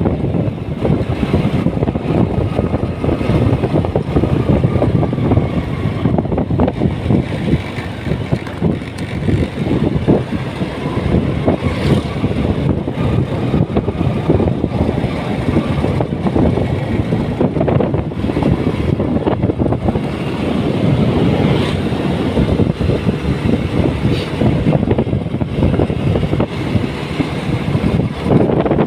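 Motorcycle running steadily while being ridden, with wind buffeting the microphone.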